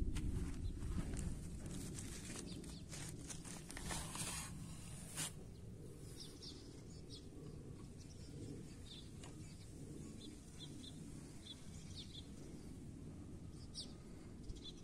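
Birds chirping in short, scattered calls over a steady low rumble, with a run of sharp clicks and knocks in the first few seconds.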